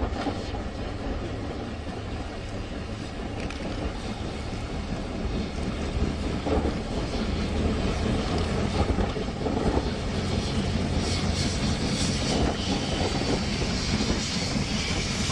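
Railway snowplow train running through snow: a steady low rumble under a loud rushing noise. A hiss builds over the last few seconds.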